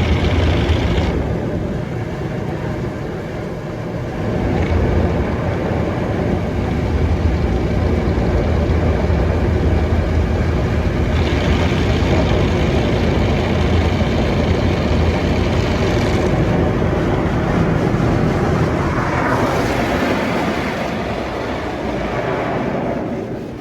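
Mark VII ChoiceWash XT soft-touch automatic car wash running its wash cycle: a steady, loud rush of water and machinery whose sound changes several times as the stages shift.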